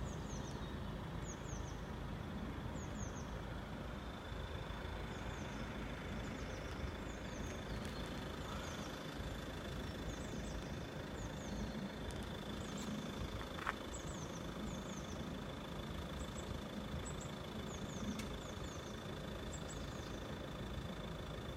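A thin, steady high-pitched tone from the obstacle-detection level crossing's alarm, growing stronger about four seconds in, over a low steady rumble. Birds chirp briefly throughout.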